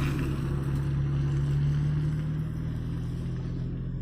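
A motor running steadily with a low, even hum that starts and stops abruptly.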